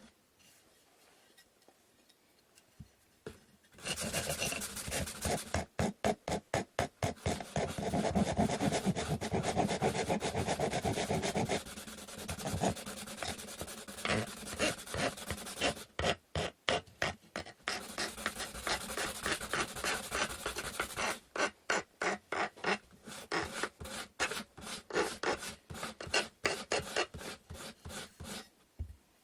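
A wooden stick being sanded by hand: quick back-and-forth rubbing strokes, several a second, in runs broken by short pauses, starting after about four seconds of quiet.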